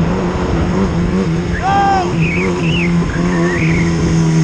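Yamaha R1's inline-four engine running at steady revs on the move, with wind noise over it.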